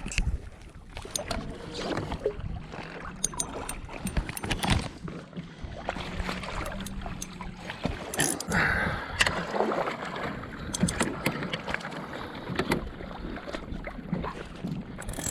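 Water sloshing and splashing around a kayak hull, with scattered knocks and clicks from the boat and gear being handled.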